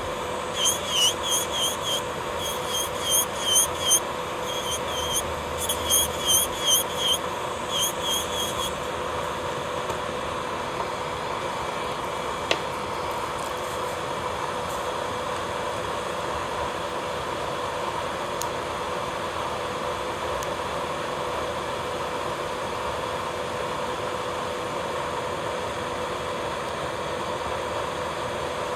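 Electric nail drill (e-file) running at a steady high speed, a constant hum, while it files down thick gel on the nails. For about the first nine seconds, quick runs of short, high chirps sound over it in groups of three to five, then stop.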